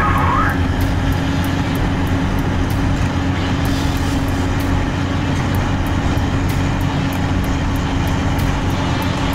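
A steady, low, engine-like mechanical drone that runs on without a break.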